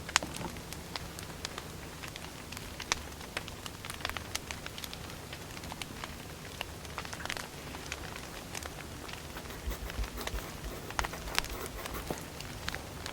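Wood fire crackling, with irregular sharp pops and snaps over a soft steady hiss. A few soft low thumps come near the end.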